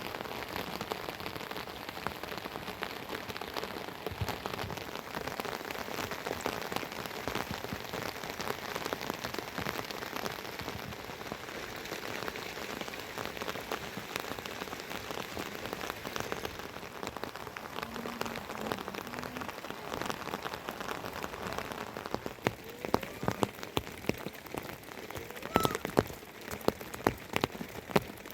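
Steady heavy rain falling, a dense patter of drops. In the last few seconds, louder individual drops or drips stand out sharply from the patter.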